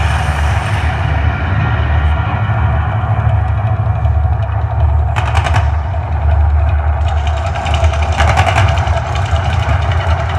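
Mirage volcano show: a deep, steady rumble, with bursts of crackling noise about five seconds in and again from about seven to nine seconds.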